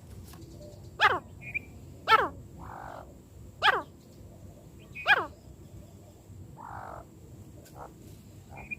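Francolin (teetar) calls: four loud, sharp calls in the first five seconds, each a quick downward-sliding note, with a few softer chirps between them. A faint steady high whine runs underneath.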